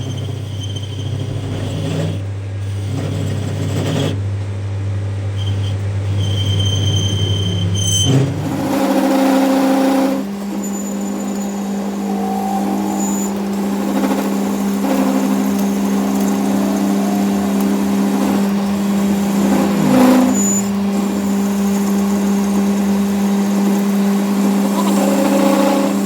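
A machine running with a steady hum, which changes to a higher, steady tone about eight seconds in.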